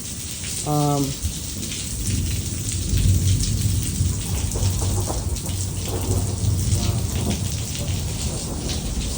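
Steady rain falling on hard surfaces, with a low rumble of thunder coming in about two seconds in and rolling on. A brief pitched sound cuts in just under a second in.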